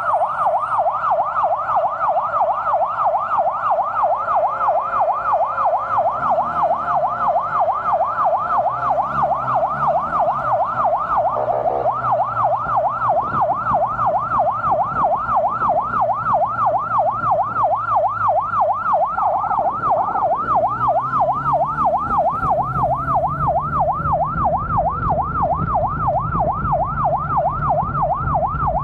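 Electronic emergency vehicle siren on a fast yelp, its pitch sweeping up and down about three times a second, with a brief stutter about eleven seconds in. A vehicle engine hums underneath and grows stronger in the last few seconds.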